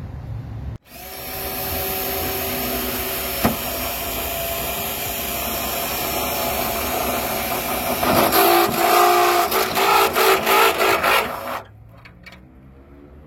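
Handheld power tool starting up about a second in and running steadily, then going in a string of loud surges for its last few seconds before cutting off suddenly near the end.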